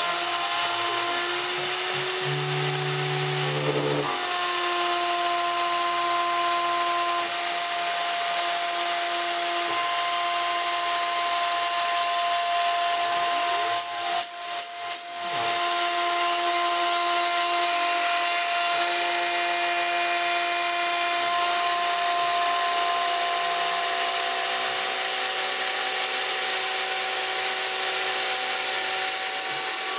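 Router spindle of a homemade CNC machine running at about 25,000 RPM, milling aluminium with a 1/4-inch O-flute endmill: a steady high-pitched whine with cutting noise. The sound briefly cuts out a few times near the middle.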